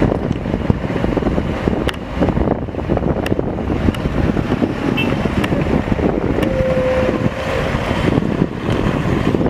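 Heavy diesel machinery running steadily, with wind buffeting the microphone and a few sharp knocks; a brief steady tone sounds about two-thirds of the way through.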